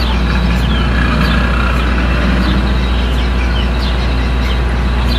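A steady, loud low rumble with a hiss of noise over it, like a running engine or machinery, starting suddenly with the cut; small birds chirp briefly and high-pitched about once or twice a second over it.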